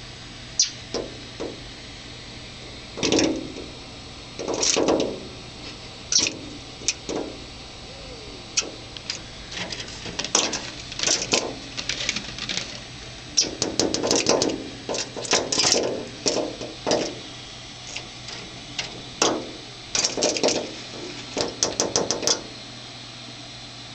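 A small bird pecking at window glass: sharp taps, some single and some in rapid runs, with a few longer, softer bumps as it flies against the pane.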